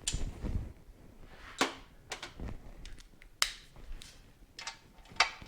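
Hand tools knocking against metal parts as a motorcycle is taken apart: about five separate sharp clacks spread over a few seconds, with a low rumble near the start.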